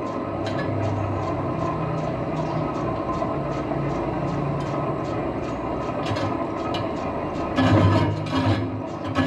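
Metal lathe running steadily while turning a truck wheel rim, a constant machine hum that gets louder and rougher near the end.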